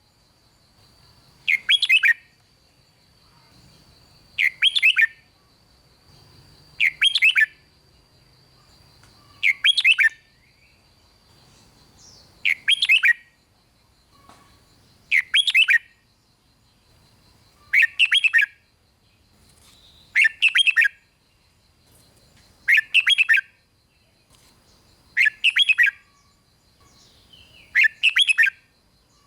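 Red-whiskered bulbul singing short, loud song phrases, one about every two and a half seconds in a steady repeating pattern.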